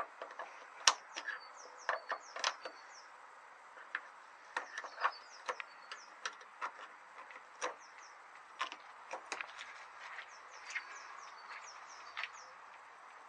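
Bird song made of short, high, falling chirps that come in repeated runs. Irregular sharp clicks and taps sound throughout, the loudest about a second in.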